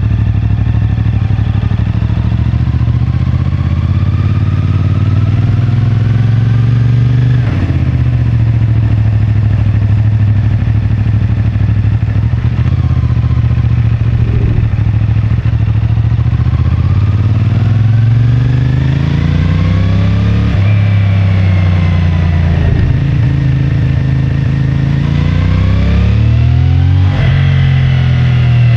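CFMoto 450MT's parallel-twin engine, stock exhaust, pulling through the gears. The revs climb and then drop sharply at an upshift about three times: early on, again about two-thirds of the way in, and near the end. In between comes a steadier stretch.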